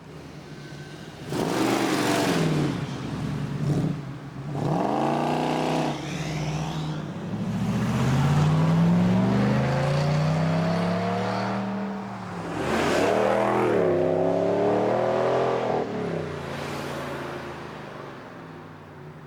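Performance car engines accelerating hard away with loud exhausts: several bursts of revving that climb in pitch and break off, and a longer run midway where the engine note glides up and down, fading near the end.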